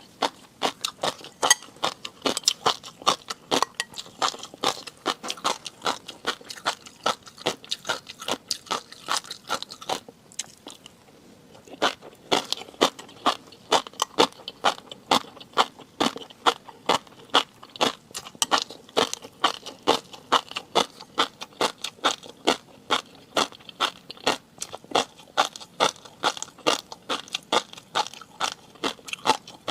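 Close-miked chewing with crisp, crunchy clicks at a steady rhythm of about three to four a second, pausing briefly about ten seconds in.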